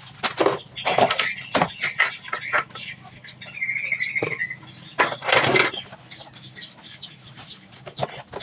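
Clicks, knocks and rustling of things being handled while a refrigerator is cleaned out, with two short bursts of hiss and a wavering squeal lasting about a second near the middle.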